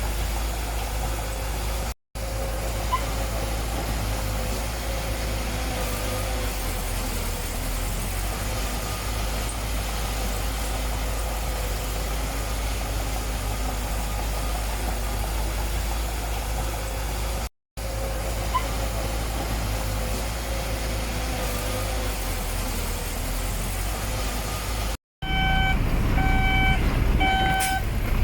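Heavy construction vehicle's diesel engine running steadily with a low rumble, interrupted by brief cuts. Near the end a louder engine comes in with a truck's reversing beeper sounding about once a second.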